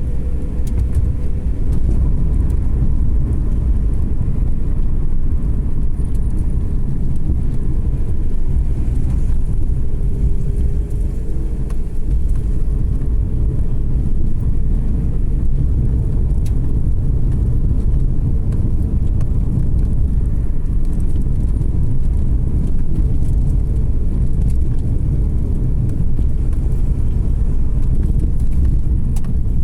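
Car driving uphill on a winding road, with a steady low rumble of engine and tyre noise.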